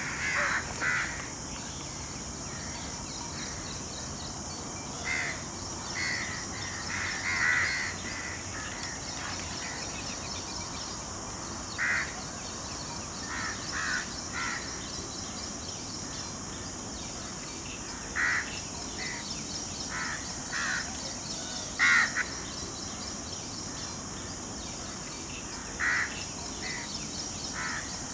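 Bird calls: short calls, one at a time or in pairs every few seconds, over a steady high hiss. The loudest call comes about 22 seconds in.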